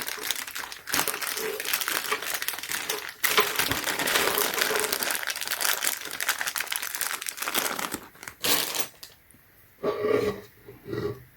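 Packaging crinkling and crumpling as it is handled, a dense crackle of small clicks that stops about nine seconds in, leaving only a few quieter handling sounds.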